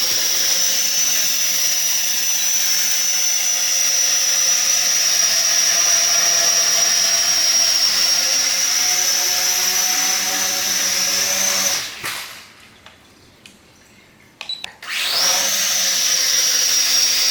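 Sky Viper v950 STR quadcopter's propellers running with a steady high whine in flight. About twelve seconds in the motors wind down and stop, a few light clicks follow, and about three seconds later they spin back up with a rising whine.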